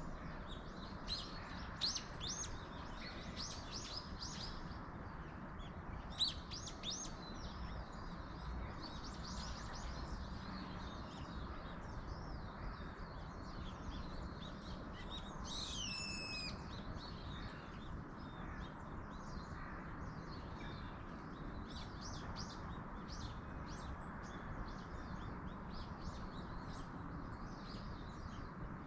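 Small birds chirping and calling in a rapid, overlapping stream of short notes, with one louder call that slides steeply down in pitch about halfway through. Underneath is a steady, even hiss of wind in the trees.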